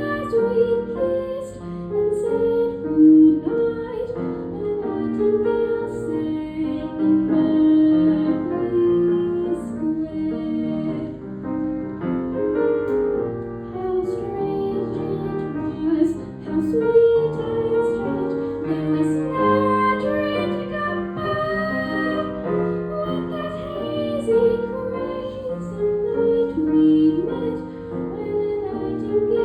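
A woman singing a jazz-standard ballad solo, accompanied by piano, with long held notes.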